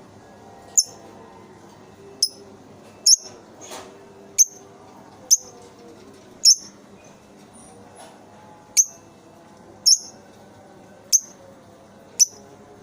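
A lovebird giving short, sharp, high-pitched chirps, about ten of them, spaced irregularly roughly a second apart.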